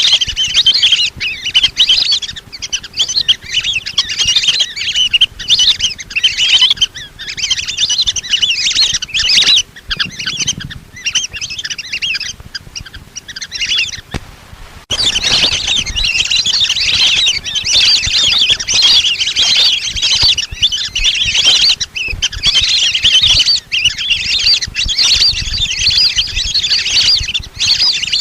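A flock of lesser whistling ducks giving their thin, high whistled calls over and over in a dense chatter. The calls thin out for a few seconds around the middle, then start again abruptly at full strength.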